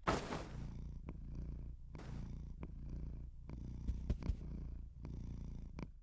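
A domestic cat purring: a steady low rumble that dips briefly every second or so as it breathes, with a few soft knocks about four seconds in.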